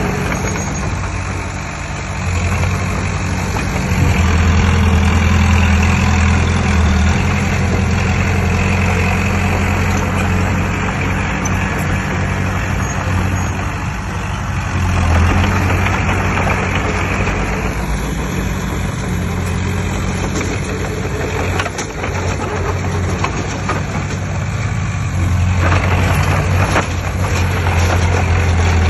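Heavy diesel engine of earthmoving machinery running steadily, getting louder under load about four seconds in, again around the middle, and near the end.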